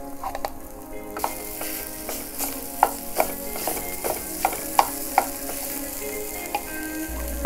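Mashed boiled potatoes hitting hot oil and spices in a frying pan, starting to sizzle about a second in, with a wooden spatula knocking and scraping against the pan as it breaks up and stirs the potato, a string of sharp taps in the middle.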